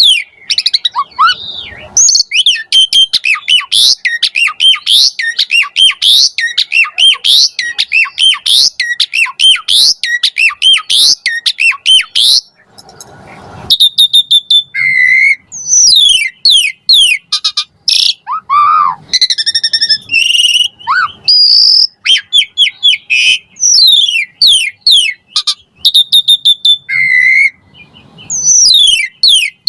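Asian pied starling (jalak suren) singing a long, varied song: rapid strings of rising and falling whistled notes, a brief harsh rasp about halfway through, then more mixed whistles and chatter.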